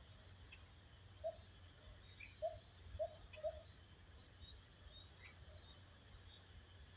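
Quiet forest ambience with a steady low rumble. Birds give four short, low calls, one about a second in and three in quick succession half a second apart, with faint high chirps scattered through.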